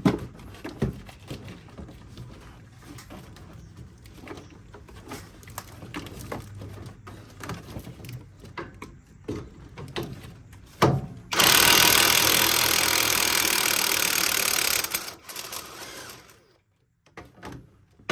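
Scattered clicks and clanks of hand tools on metal, then about eleven seconds in a power tool runs loud and steady for about four seconds and stops, spinning off the nuts on a strut's top mount.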